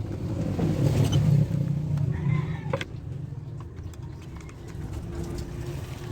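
A motor vehicle passing by: a low rumble that builds over the first second or so, then fades by about three seconds in, with a few sharp clicks.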